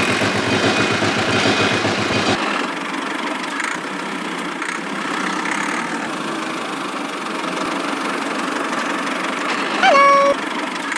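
An engine running with a fast, even beat that changes abruptly about two seconds in to a thinner, steadier hum. A brief pitched tone sounds near the end.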